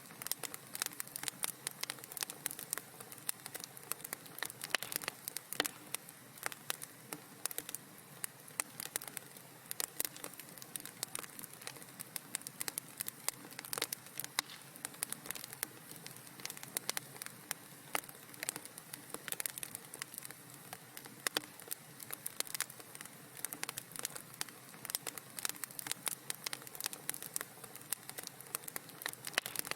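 Wood fire in a fireplace crackling, with dense, irregular small pops and snaps over a soft steady hiss.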